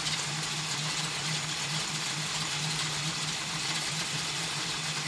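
Rebuilt Pontiac 400 V8 with a four-barrel Holley carburettor, idling steadily and evenly.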